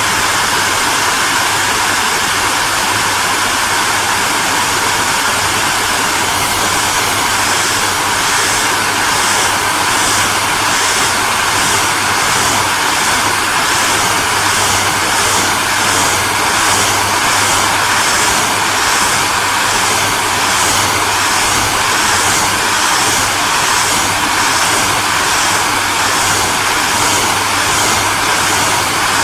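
Hair dryer running steadily: a loud, even rush of air over a low motor hum. From about seven seconds in, the high part of the hiss pulses lightly at a regular pace.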